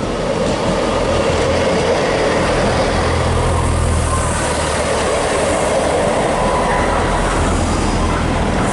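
A passenger train running past at close range: a loud, steady rumble of wheels on rail over a low drone, growing louder over the first second.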